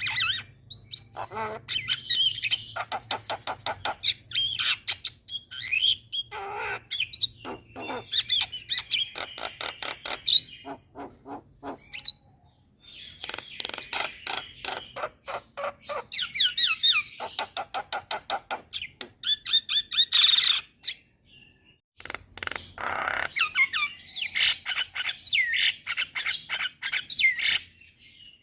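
Mynas of the jalak group chattering and whistling in rapid strings of harsh notes and rising and falling whistles, falling silent twice for a moment. It is a lure recording used to prompt other starlings to sing.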